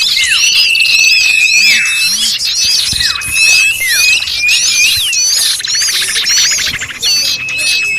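Recording of a crowd of small birds calling excitedly at once, used as a bird lure: rapid high chirps and short rising notes over long level whistles that fall away at their ends, with a buzzy rattle around six seconds in.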